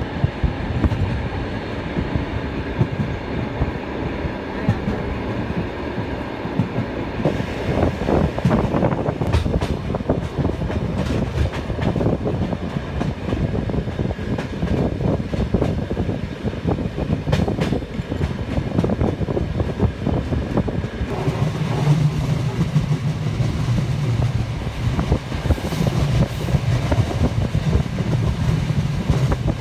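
Trans-Siberian passenger train running along the track: a steady rumble of wheels on rails with rapid clickety-clack. A low drone joins about two-thirds of the way through.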